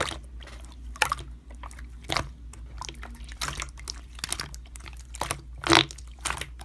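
Slime being pressed and squeezed by hand, making irregular sharp pops and clicks, a few a second, with louder pops about one second, two seconds and nearly six seconds in.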